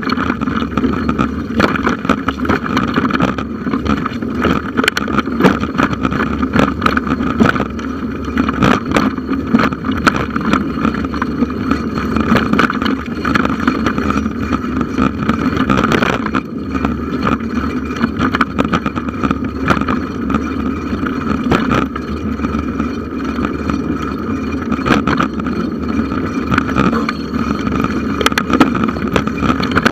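Bicycle riding over a forest trail, heard through a handlebar-mounted camera: a constant rumble of tyres and wind on the microphone, with frequent sharp knocks and rattles as the bike jolts over bumps.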